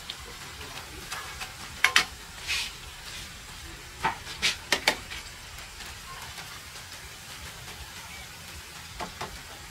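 Food frying in oil with a steady sizzle. A utensil clacks against the pan in short clusters: twice about 2 s in, four times between 4 and 5 s, and twice near the end.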